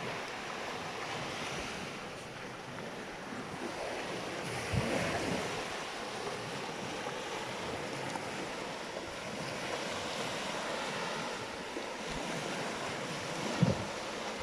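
Sea waves washing on the shore with wind buffeting the microphone. Two brief low thumps, about five seconds in and near the end, the second the loudest.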